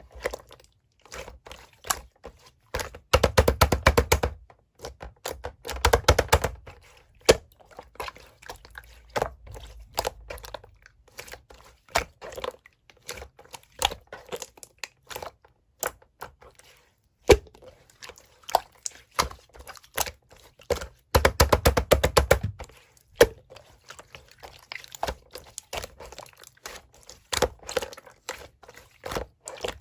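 Slime being squished and pressed by hand, giving a run of small clicks and pops with denser crackling spells about three seconds in, around six seconds in, and again around twenty-one seconds in.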